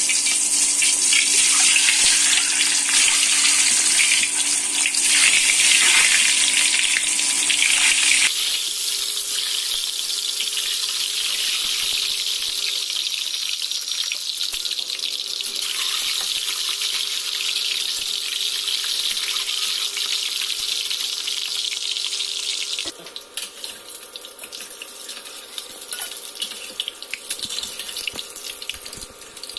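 Hot oil sizzling steadily as peeled boiled eggs fry in a wok, with a faint steady hum beneath. The hiss changes abruptly about eight seconds in and again about three quarters of the way through, after which it is quieter with spattering crackles.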